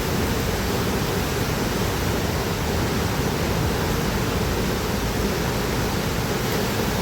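Loud, steady rushing noise with no distinct events, such as wind or moving water gives.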